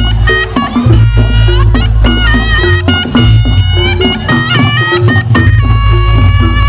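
Loud Reog Ponorogo accompaniment: a slompret, the reedy double-reed trumpet, plays a stepping melody of held notes over heavy low drum and bass beats.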